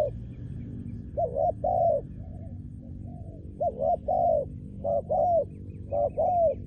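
Spotted dove cooing: loud phrases of two or three hollow coo notes, repeated about five times, with fainter coos between them.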